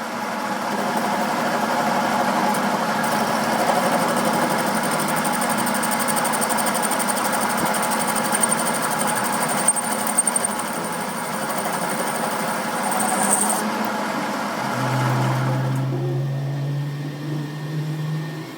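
A machine running steadily with a thin high whine that cuts off suddenly about halfway through; a low hum then rises slowly in pitch near the end.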